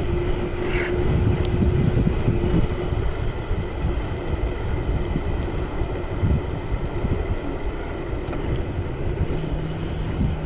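Wind buffeting the action-camera microphone with road rumble as a Trek FX+ pedal-assist e-bike is ridden on a flat tyre. A steady hum runs for the first two or three seconds, and a lower hum comes in near the end.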